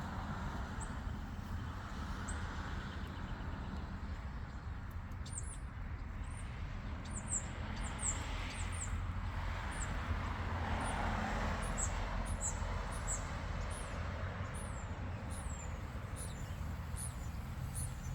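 Small birds chirping, with many short, high, downward-sliding chirps that come thick from about five seconds in, over a steady low rumble.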